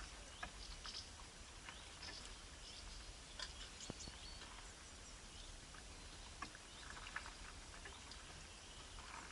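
Faint, short bird chirps, scattered and irregular, over a low steady hum.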